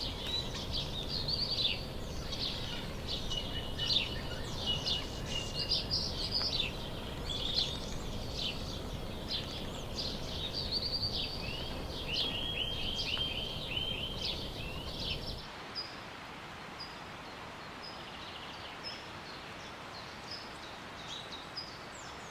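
Several birds calling and chirping over a steady background hiss, with a rapid trill about twelve seconds in. About fifteen seconds in the background drops off abruptly and only sparse, fainter high-pitched calls remain.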